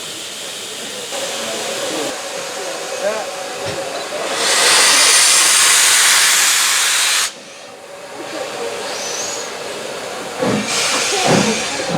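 Steam locomotive hissing steadily. About four seconds in, a loud burst of escaping steam runs for some three seconds, then cuts off suddenly.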